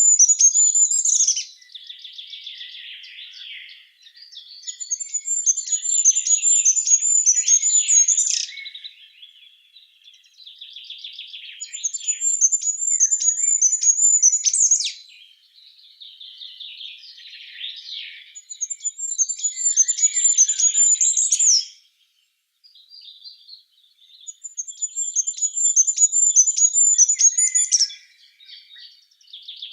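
A songbird singing: a high, rapid trill of repeated notes lasting about three seconds and ending in a sharp upward flourish, repeated five times, with softer chirping between the songs.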